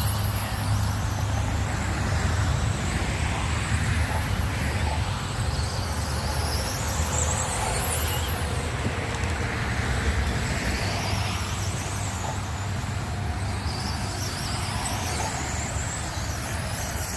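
Radio-controlled race cars running laps on an oval track, their motors whining in high sweeps that rise and fall as they pass, over a steady low hum.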